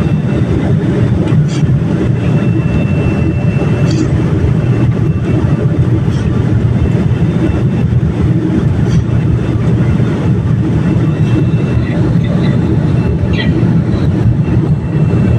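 Loud, steady rumble inside the cabin of a Boeing 787 airliner: engine and airflow noise, with a few faint ticks above it.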